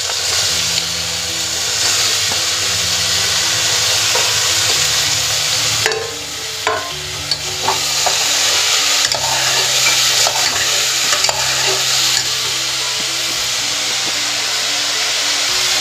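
Chopped bottle gourd sizzling in oil in an aluminium pressure cooker, stirred with a steel spoon that scrapes and clicks against the pot now and then.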